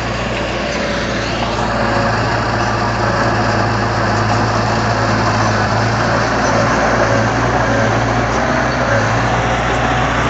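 Diesel engine of heavy earthmoving equipment running steadily under a constant low drone.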